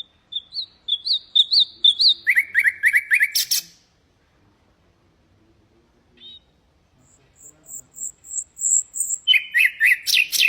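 Common nightingale singing two separate song phrases, each a quick series of repeated whistled notes. The second phrase opens with a run of high, thin notes before dropping to lower, faster notes.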